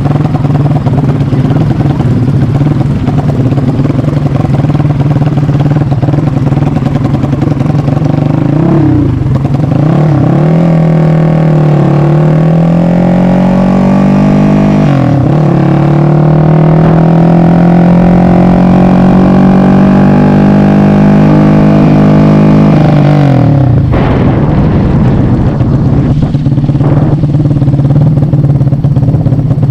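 Yamaha MX King motorcycle with an engine built up to 300cc, running steadily, then accelerating through the gears. The pitch dips at two gear changes, about 9 and 15 seconds in, and climbs between them. Near the end the throttle is shut and it falls back to a low steady run.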